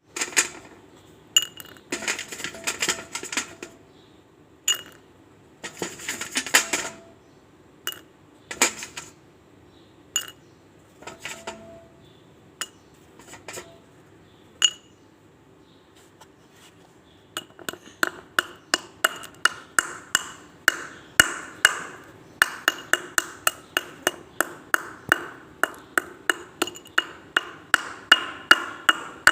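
Slate pencils being bitten and crunched. Scattered sharp snaps and crackly crunches come first, then past the halfway point a steady run of crunches at about two to three a second, like chewing.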